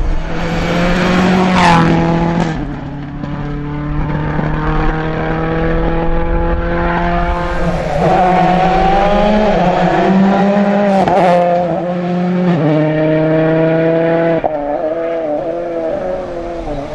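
Rally car engine running hard through a stage, its note rising and then stepping down several times as the driver changes gear.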